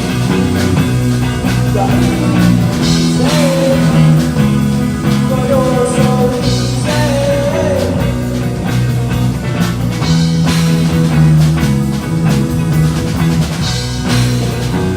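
Live rock band playing an instrumental passage: drums, bass and guitar with a lead line that bends in pitch.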